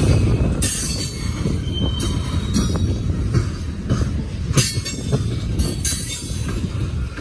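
Coal train's open-top coal cars rolling past close by: a steady low rumble of steel wheels on the rails, with short high-pitched wheel squeals every second or so.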